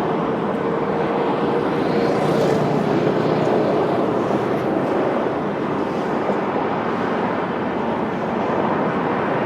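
Steady street traffic noise, a continuous even rumble of vehicles, with a faint droning tone that sinks slowly in pitch over the first half.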